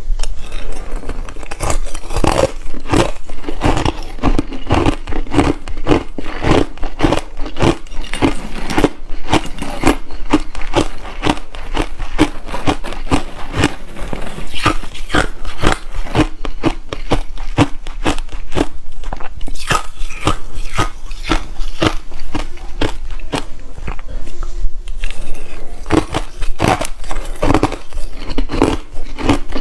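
Someone biting and chewing refrozen crushed ice close to the microphone: a rapid run of hard, sharp crunches, several a second, with no pause.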